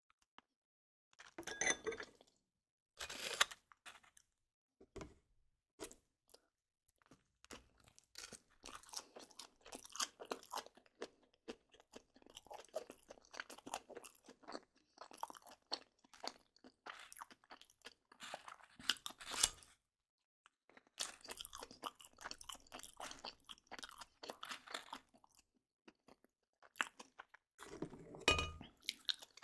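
Crisp crunching and crackling, close up, in irregular bursts with short pauses between them.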